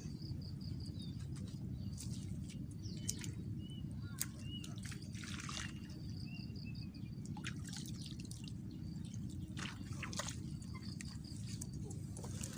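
Outdoor ambience: birds chirping in short repeated calls over a steady low rumble, with scattered sharp clicks and drips.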